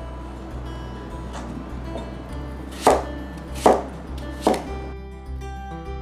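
Santoku knife chopping an apple into chunks on a plastic cutting board: three sharp chops about a second apart in the second half, with a fainter one earlier.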